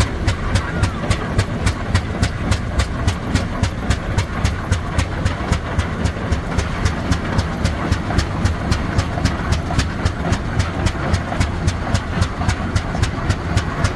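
Slow-running antique engine with a steady, even beat of sharp knocks, about three a second, over a low rumble.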